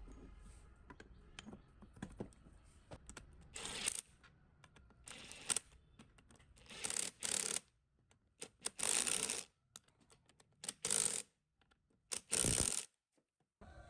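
Repeated short hissing bursts, each about half a second to a second long, with light clicks and taps of small metal parts between them.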